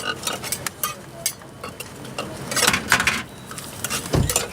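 Clinks and clatter of metal utensils and cookware at a street-food stall, a run of short clicks with a busier stretch in the middle and a dull thump near the end.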